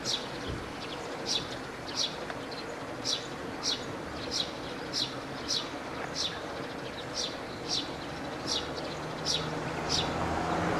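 A small bird calling over and over, short high chirps that sweep downward, about one or two a second. A low vehicle engine hum comes up near the end.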